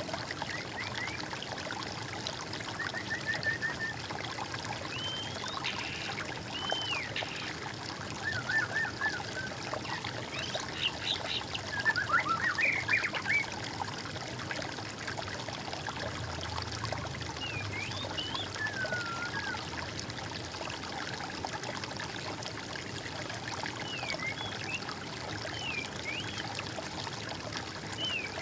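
Water trickling steadily, with songbirds calling over it in short whistled phrases and trills every few seconds; the busiest, loudest calls come a little before the middle.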